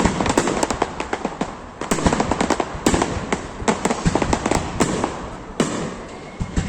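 Fireworks display going off: a rapid string of bangs and crackles, with several heavier booms among them.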